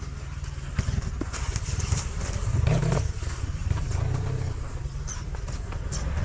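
Enduro motorcycle engine running under throttle, rising about two and a half seconds in and then settling, with scattered short knocks.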